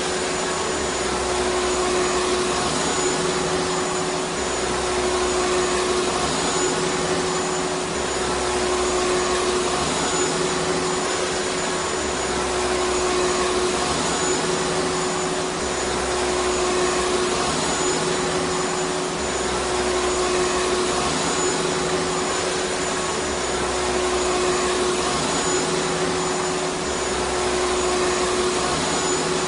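Vacuum cleaner running steadily: a loud, even rushing noise with a constant hum and a faint high whine, swelling slightly every few seconds.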